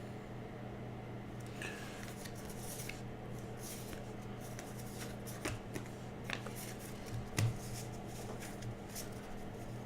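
Baseball trading cards being handled and flipped through: soft, scattered swishes and clicks of card stock, more frequent from about three seconds in, over a steady low electrical hum.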